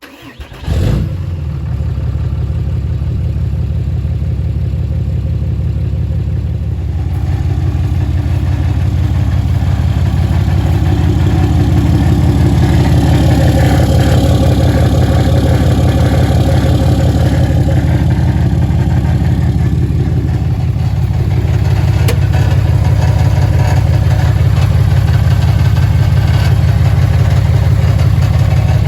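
Large truck engine running steadily. It comes in about a second in and grows a little louder about ten seconds in.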